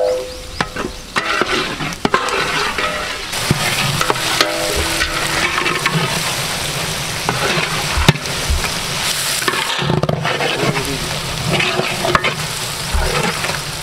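Sliced onions and spice paste sizzling in hot oil in a large metal pot, stirred and scraped with a long metal ladle, with a sharp knock of the ladle against the pot now and then.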